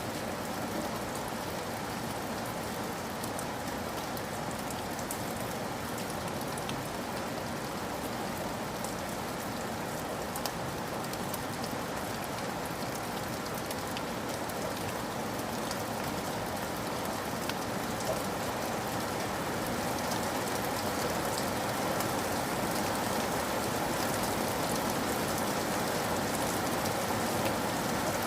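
Steady rain falling, a dense even hiss with scattered drop ticks, growing slightly louder in the last third.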